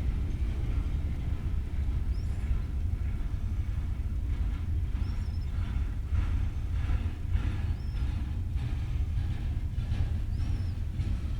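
Freight train rolling past: a steady low rumble, with a faint regular clatter of wheels over rail joints, about two a second, in the middle.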